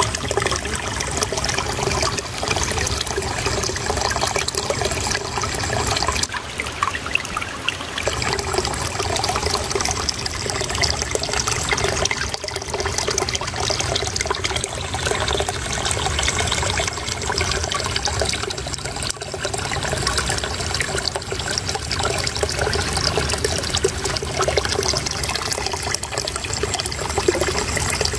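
Shallow running water trickling and babbling steadily.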